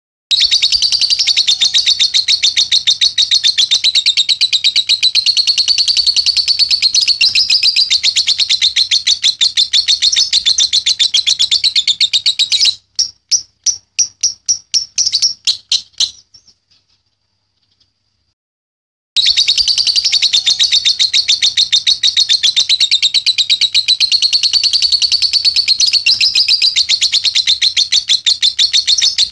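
Young lovebird singing its long 'ngekek' chatter: a fast, unbroken run of high chirps. A little before halfway it slows into separate notes, falls silent for about three seconds, then starts up again.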